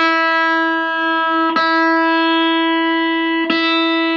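Electric guitar playing one sustained note, picked three times and left to ring between strikes.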